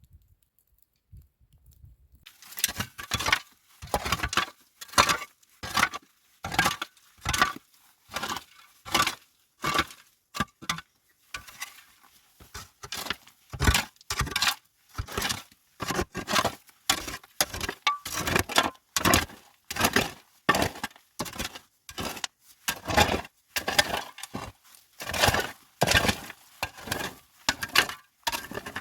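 A long run of sharp crunching or cracking strikes, about two to three a second, starting a couple of seconds in.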